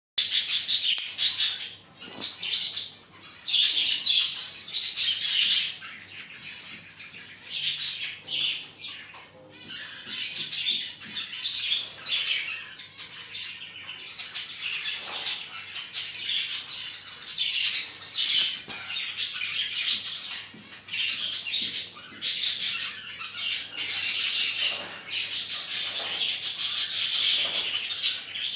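Pet cockatiels chirping and calling, high-pitched, in repeated bursts with short pauses between.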